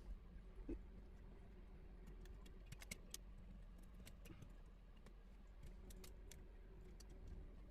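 Faint, scattered small clicks and ticks of parts and connectors being handled inside an iMac G3, bunched about a third of the way in and again near the end, over a quiet room background.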